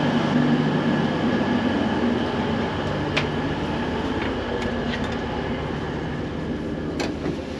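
CrossCountry Voyager diesel train standing with its underfloor engines running: a steady hum and rumble. A couple of sharp clicks break in, about three seconds in and again near the end.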